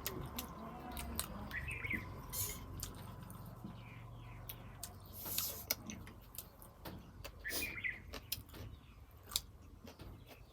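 Chewing while eating ramen, with many small sharp clicks and taps. A bird chirps briefly twice, about two seconds in and again at about seven and a half seconds.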